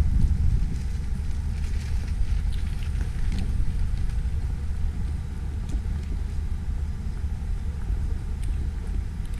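Wind buffeting the microphone in a snowstorm, a steady, jittery low rumble.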